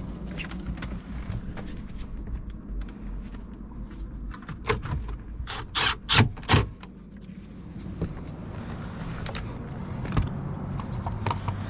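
Cordless impact driver run in three short bursts about six seconds in, driving in the first of three screws. Light clicks and rattles of handling the screw and tool come before.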